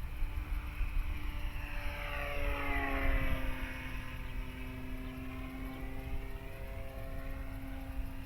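Electric motor and propeller of a Dynam Super Cub RC plane in flight, a steady whine that swells and drops in pitch as it passes about three seconds in, then holds lower and steadier. Low rumble of wind on the microphone underneath.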